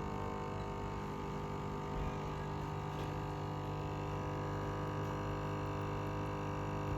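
Dolce Gusto capsule machine's pump humming steadily as it forces water through a reusable capsule packed with coffee ground too fine. The machine strains against the blockage, which the owner fears will break it.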